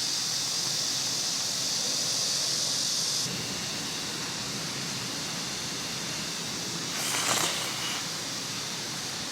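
Steady outdoor background hiss. A strong high hiss band drops away sharply about three seconds in, and a brief rustle comes near the end.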